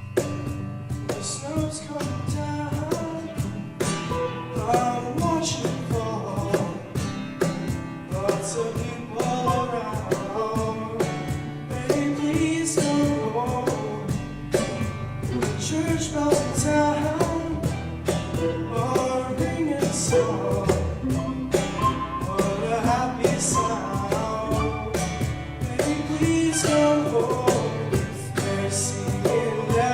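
Live pop-style Christmas song: singers over a band with a steady drum beat, starting in right at the start.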